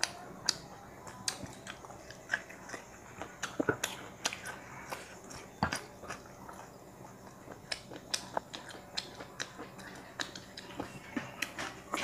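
A person chewing food close to a clip-on microphone, with irregular wet mouth clicks and smacks.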